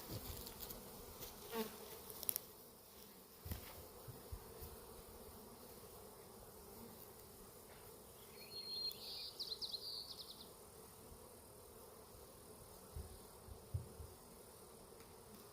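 Honeybees buzzing as a steady hum around a disturbed hive that has just been knocked over. Occasional light knocks and clicks, and a brief high trill about eight seconds in.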